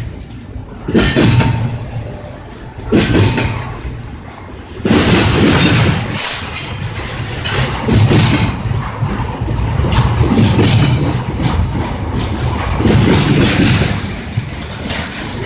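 A train passing close by, its wheels clattering on the rails and swelling in repeated surges every two to three seconds.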